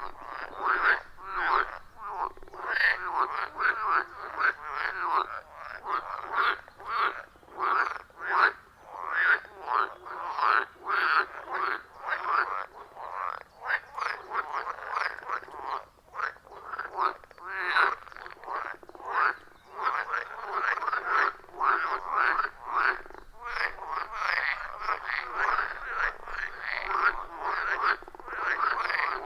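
A chorus of many frogs calling together: dense, overlapping croaks repeating rapidly, with brief lulls where the calling thins.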